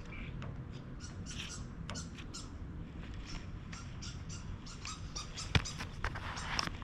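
Plastic spreader scraping and squeaking as two-part glazing putty is wiped over a car door panel, with short irregular strokes and one sharp click about five and a half seconds in, over a steady low hum.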